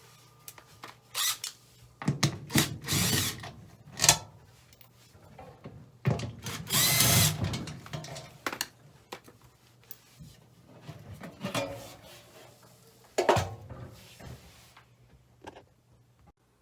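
Cordless drill driving out the screws of a furnace access panel in short runs, the longest about two seconds in and again around six seconds in, with scattered clicks and knocks between.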